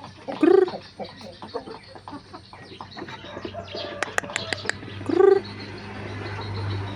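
Bangkok game chickens calling: two loud, short squawks, one about half a second in and one about five seconds in, with softer clucking between them. A few sharp clicks sound around the four-second mark, and a low hum runs under the second half.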